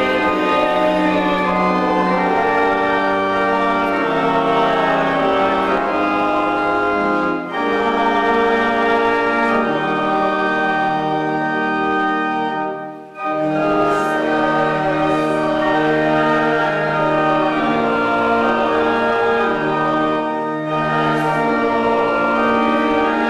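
Organ playing a hymn in sustained chords, with short breaks between phrases.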